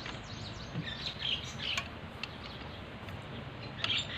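Small birds chirping repeatedly in quick, short calls, busiest about a second in and again near the end, with a few light clicks.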